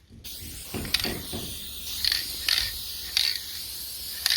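Aerosol can of coil-protection spray hissing in several short bursts about a second apart, with some handling clatter about a second in.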